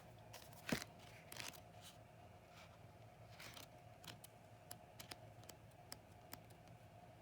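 Faint paper rustling and scattered soft taps as the pages of a card deck's guidebook are leafed through, with one sharper tap a little under a second in.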